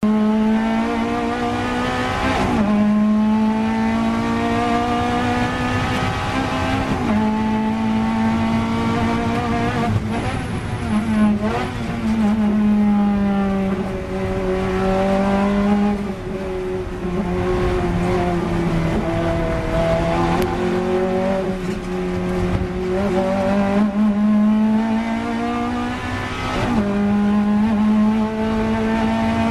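Ferrari F430's V8 engine heard from inside the car at racing speed, its pitch rising and falling with throttle and gear changes through the corners, with a few sudden breaks in the note.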